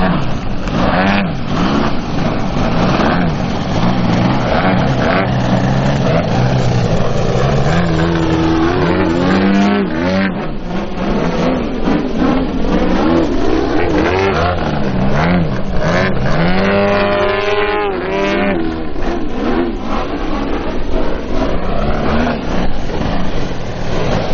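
Engines and propellers of two RC Extra 330 SC aerobatic model planes running loudly, their pitch rising and falling over and over as they manoeuvre and pass, with several overlapping glides in the middle.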